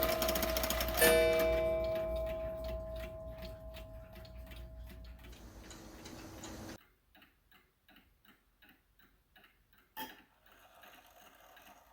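Seth Thomas beehive mantel clock: a struck note from its strike rings out about a second in and slowly fades, over the steady tick of its movement. A single louder click comes about ten seconds in.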